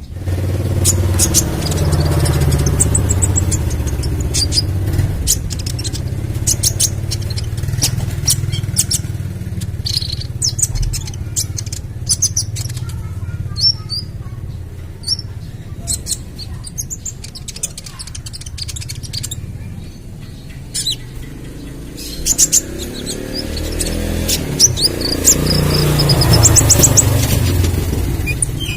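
Young kolibri ninja sunbird singing in quick bursts of sharp, high chirps and trills, over a steady low rumble.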